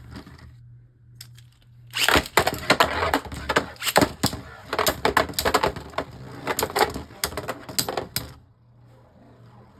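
Beyblade Burst spinning tops launched into a plastic stadium and clashing: a dense rattle of rapid clicks and knocks starts about two seconds in, runs for about six seconds and stops abruptly.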